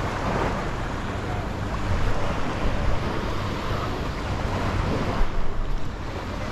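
Small sea waves washing onto a sandy beach, swelling and easing, with wind rumbling on the microphone.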